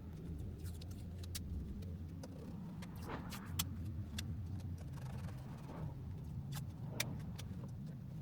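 A low steady hum with scattered light clicks and clinks, like small tools or parts being handled.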